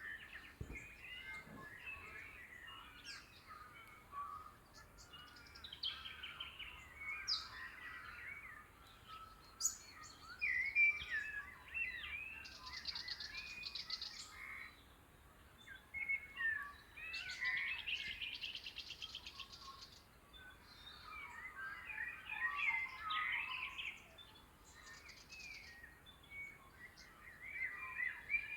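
Dawn chorus of Australian woodland birds: many overlapping chirps and calls, with a long, fast high trill about twelve seconds in and another about seventeen seconds in.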